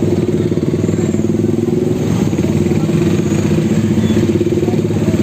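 A vehicle engine running steadily close by, with a fast, even pulse and no change in speed.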